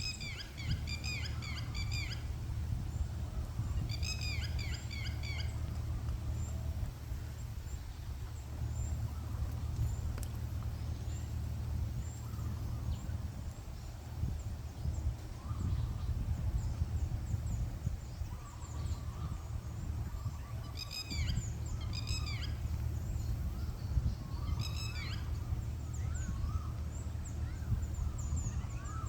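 An unidentified bird calling in several bouts of rapid, repeated high notes, each bout a second or two long, with a long gap in the middle. A steady low rumble runs underneath.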